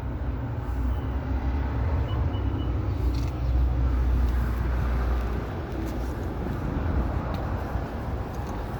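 Low rumble of street traffic, swelling about three seconds in as a vehicle passes.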